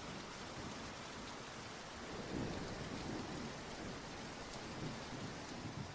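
Steady rain falling, with low rolling thunder swelling up about two seconds in and again near the end.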